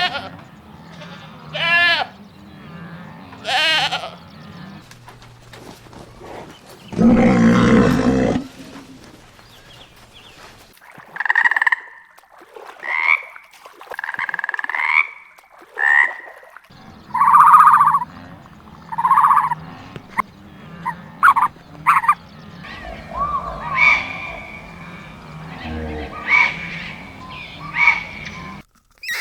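A series of animal calls: bleats with a wavering pitch in the first few seconds, a loud harsh call about seven seconds in, then many short calls in quick succession.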